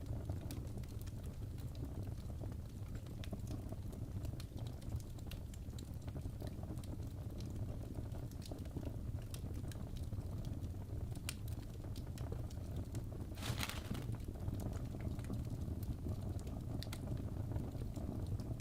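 Crackling fireplace ambience: a steady low rumble of burning with frequent small sharp crackles, and a brief louder hiss about thirteen seconds in.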